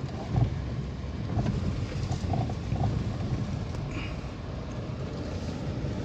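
Steady rumble of a vehicle driving along a dirt road, with wind noise on the microphone.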